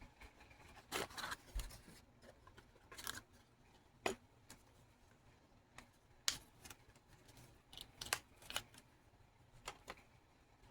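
Irregular light clicks, taps and short scraping sounds of small hard objects being handled, about a dozen spread unevenly, with a louder sharp click about six seconds in.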